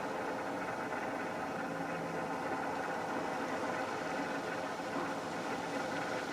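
Honda CR250R's single-cylinder two-stroke engine idling steadily during its warm-up after a cold start.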